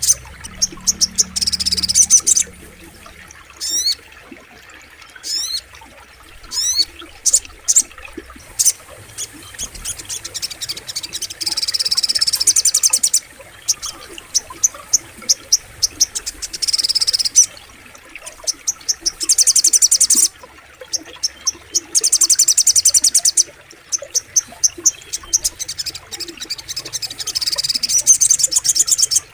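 Sogok ontong (little spiderhunter) singing: loud, high-pitched single sharp notes alternating with fast trills of rapidly repeated notes that last a second or two, several times over.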